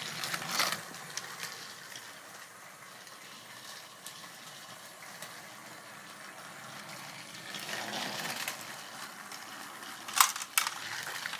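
Two battery-powered Thomas & Friends TrackMaster toy trains racing on plastic track: a steady motor whir and rattle that grows louder about eight seconds in, with a couple of sharp clicks near the end.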